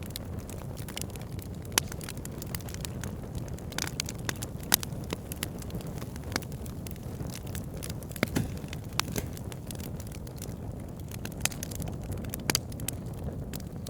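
Wood fire burning: a steady low rush of flame with frequent sharp crackles and pops from the burning logs, a few of them louder than the rest.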